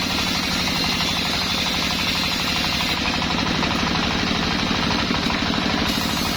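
Small sawmill running steadily: a loud machine sound with a fast, even pulsing and a constant pitch throughout.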